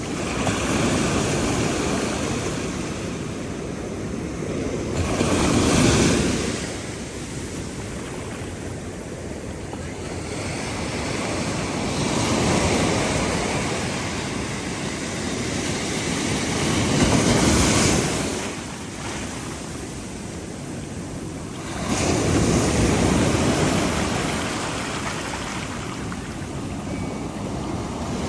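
Ocean surf breaking on a beach: a rushing wash that swells and fades about five times, a wave every five to six seconds.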